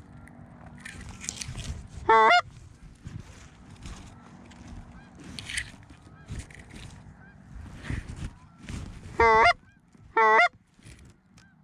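Canada goose call blown by a hunter in the blind: three loud, close honks, one about two seconds in and two in quick succession near the end, with fainter goose honking in between.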